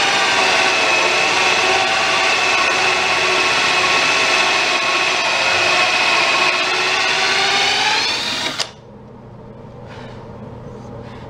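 Electric drill running steadily with a high whine, rising a little in pitch just before it stops abruptly about eight and a half seconds in; a couple of faint knocks follow.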